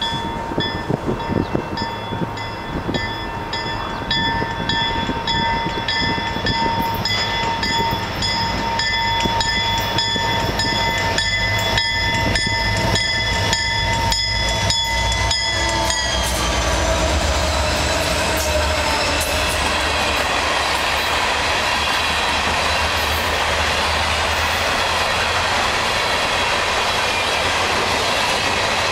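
Diesel freight locomotives sound a long horn chord as they approach. The horn's pitch drops as they pass, about halfway through, and their engines rumble by. After that comes the steady rolling clatter of a long string of loaded ballast hopper cars on the rails.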